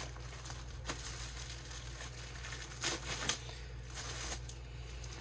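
Packaging being unwrapped from storage cases: crinkling and rustling with a few louder strokes, the strongest about three seconds in.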